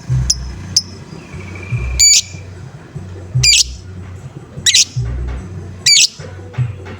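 Lovebird calling: two short chirps, then a series of four loud, harsh squawking calls about a second and a quarter apart, over a low background rumble.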